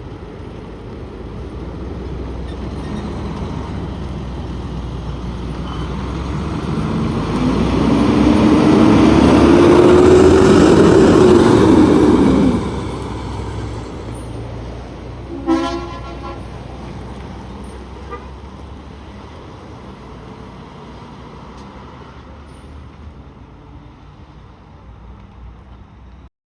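Roadway traffic: a vehicle passes close, its engine tone rising as it swells to the loudest point about ten seconds in, then drops away sharply. A short horn toot sounds about fifteen seconds in, followed by steady, fading traffic noise.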